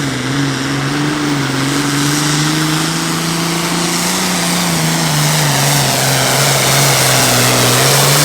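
Turbocharged diesel engine of a super farm pulling tractor running hard on a sled pull, its pitch holding steady with a slight waver and growing a little louder toward the end.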